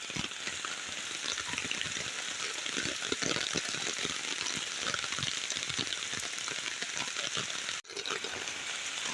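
Floodwater of a swollen river rushing steadily, a continuous hissing, crackling rush of water that breaks off for an instant near the end.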